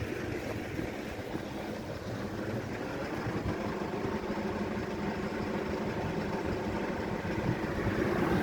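A motor vehicle's engine running steadily, growing a little louder toward the end.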